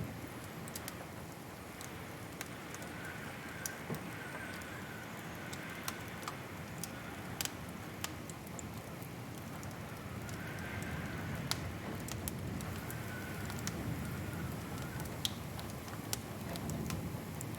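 Wood fire in a fireplace burning with a steady low rumble and irregular sharp crackles and pops. A faint wavering whistle comes and goes.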